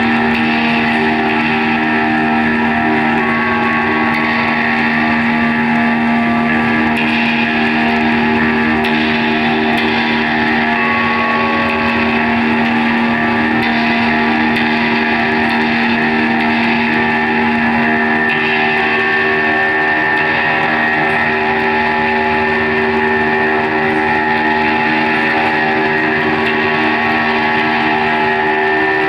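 Live drone music: dense layers of long held tones, loud and steady with no beat, some tones shifting every few seconds.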